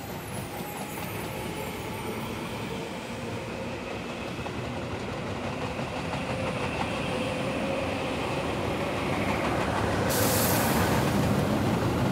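Tobu Tojo Line electric commuter train running along the tracks, the rumble growing louder toward the end, with a short hiss about ten seconds in.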